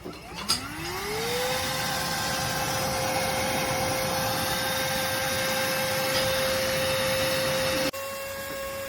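Lodick cordless stick vacuum switched on with a click, its motor whine rising over about a second to a steady high pitch over the rush of air being sucked in. About a second before the end the sound drops abruptly to a quieter running.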